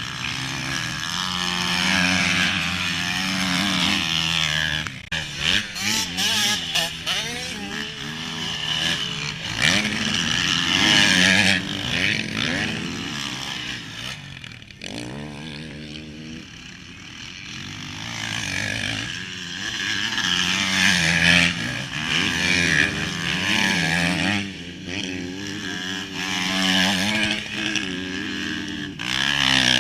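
Motocross bike engine revving up and dropping back over and over as the bike is ridden round the track, quieter for a few seconds in the middle. A few sharp knocks about five to seven seconds in.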